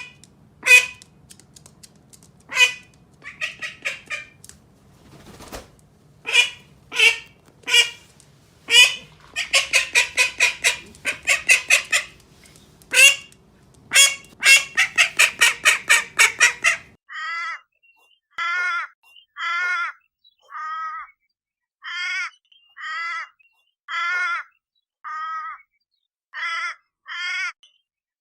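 Bird calls: sharp single calls and fast runs of honking calls for about seventeen seconds, then, after a sudden change, a steady series of harsh calls about one a second.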